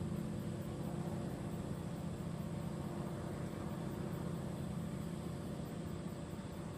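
Steady low background hum with a hiss over it and a faint high whine; no distinct events.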